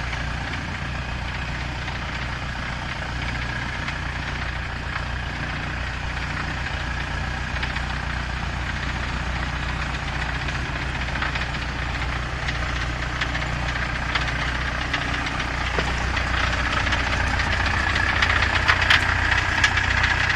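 Engine of a 3-ton crawler dumper running steadily, getting somewhat louder over the last few seconds, with scattered sharp clicks near the end.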